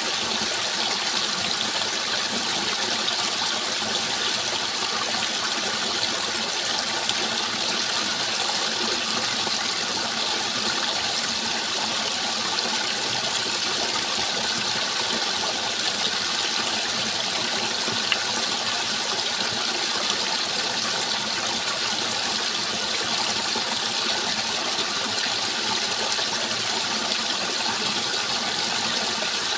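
Steady rushing of flowing water, an even continuous wash with no breaks.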